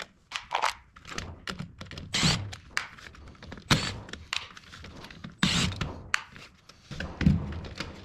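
Irregular clicks, knocks and short scrapes of a screwdriver working on the screws of a plastic dome security camera housing, with the housing clacking as it is handled.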